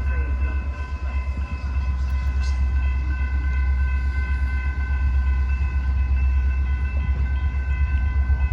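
Train passing at a grade crossing: a heavy, steady low rumble, with steady high tones held throughout.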